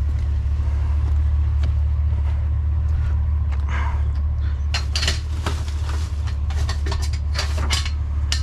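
Junk clattering and knocking as loose scrap is rummaged through in a dumpster, a run of sharp knocks and rattles in the second half, over a steady low rumble.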